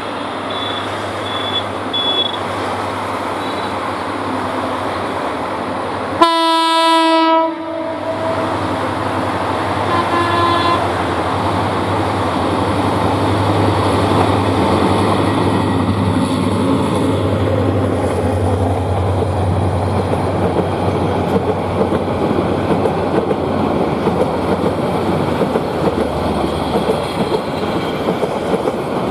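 EMD diesel locomotive's horn gives one loud blast of about a second and a half, six seconds in, and a shorter, fainter blast about four seconds later. Under and after the horn the locomotive's engine drones and the train's wheels rumble and clatter on the rails, growing louder as the train comes past.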